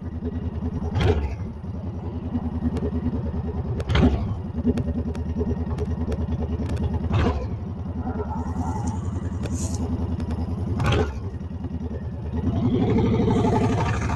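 Honda Fury's 1300cc V-twin engine running steadily under way, with a few brief sharp knocks along the way; near the end the engine revs up as it accelerates.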